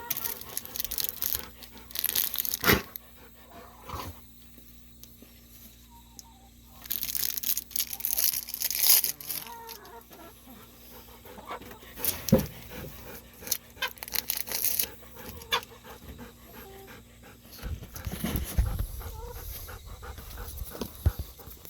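Golden retriever panting and moving about close by, with scattered rustles and clicks.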